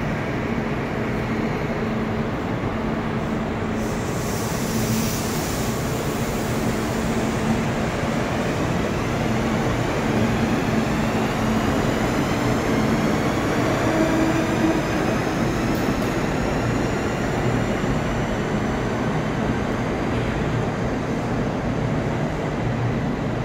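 Kintetsu limited-express train pulling out along an underground platform: a steady rumble of wheels and running gear, with a faint high whine that slowly falls in pitch, echoing in the enclosed station.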